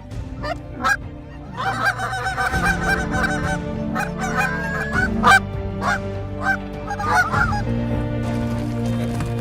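Geese honking and clucking in quick, repeated runs: hunters blowing goose calls and geese answering as a flock works toward the decoy spread.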